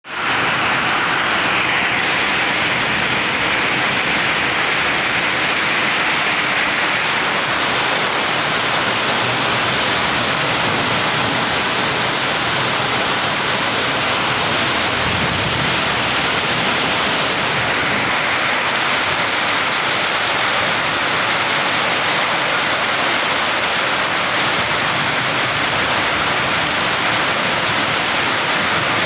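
Heavy rain pouring down in a dense, steady hiss that keeps up without let-up.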